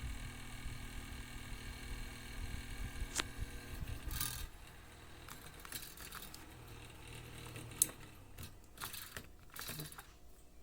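Small electric mini fan's motor running with a steady hum and whine, which dies away about four seconds in. Sharp clicks and light plastic rattles follow, with one loud click near the end, as the fan is handled.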